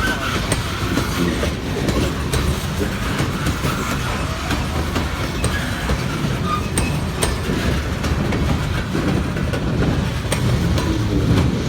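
Norfolk Southern freight train rolling past, its wheels clicking steadily over the rail joints under a continuous rumble.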